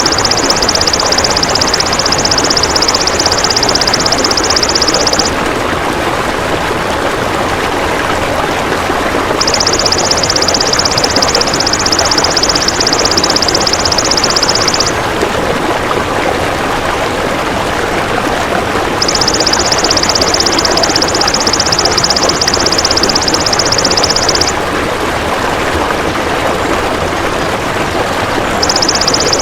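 Golden grasshopper (belalang emas) singing a high, fine buzzing trill in spells of about five seconds separated by pauses of about four seconds, over a steady loud rushing noise.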